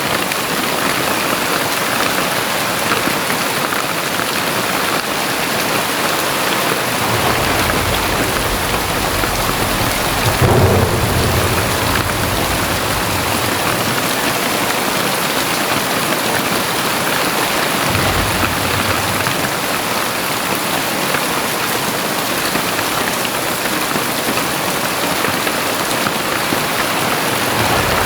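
Very heavy rain falling in a steady, dense hiss. Deep low rumbles swell in twice, the stronger one peaking about ten seconds in.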